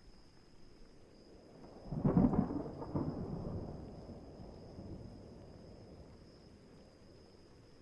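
A thunderclap about two seconds in: a sudden loud crack, a second surge a moment later, then a rumble that fades away over the next few seconds, over faint rain.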